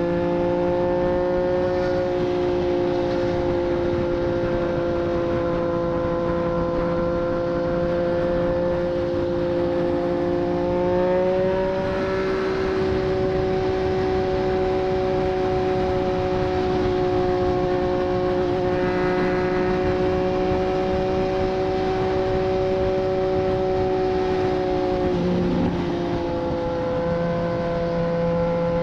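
2024 Triumph Street Triple 765 RS's inline-three engine running through a Racefit Growler full exhaust at a steady cruising note. The pitch steps up slightly about eleven seconds in, and dips briefly near the end before settling back.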